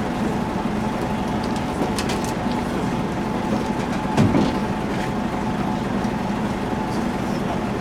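A steady mechanical hum like a vehicle engine running, with a few brief clicks and a short louder sound about four seconds in.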